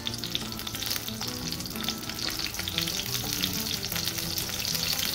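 A sauce-dipped corn tortilla frying in hot oil in a pan, giving a steady crackling sizzle with many small pops. The oil is hot enough to fry, and the tortilla is starting to bubble.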